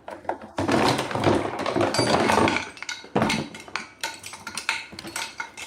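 Packing material rustling loudly for about two seconds as the box contents are handled, then a run of light knocks and clicks from hard parts being moved.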